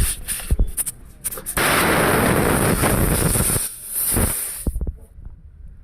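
A loud, steady rush of hissing air for about two seconds, then a shorter, fainter rush, after a few sharp knocks near the start.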